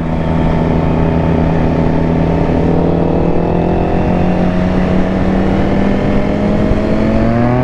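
Motorcycle engine running steadily under way, its pitch climbing gently in the last couple of seconds as it picks up speed.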